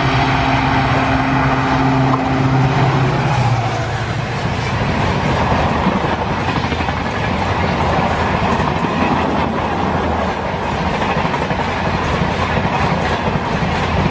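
Electric trains running past on the track, a loud steady noise of wheels on rail. A low steady hum sounds for the first three seconds or so and then fades into the rolling noise.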